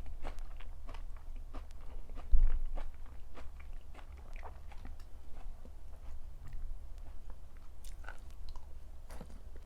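Close-miked chewing and biting of food, with irregular wet clicks and crisp crunches. A single low thump about two and a half seconds in is the loudest sound.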